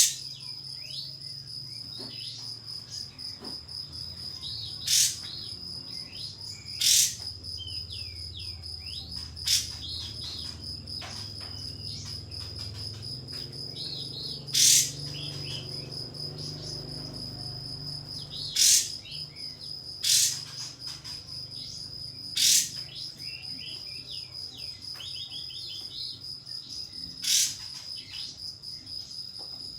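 Kapas tembak songbird giving short, sharp, loud calls about eight times, a few seconds apart, with softer twittering in between. A steady high cricket-like trill runs underneath.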